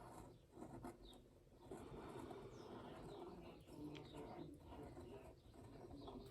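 Faint scratching of a 0.5 fine-liner pen drawing sketchy lines on paper.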